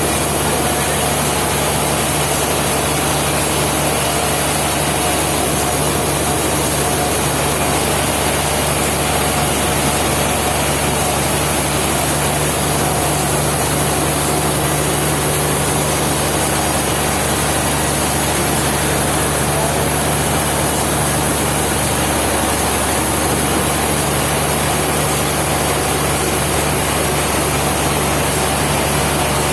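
Sawmill machinery running steadily with a constant low hum.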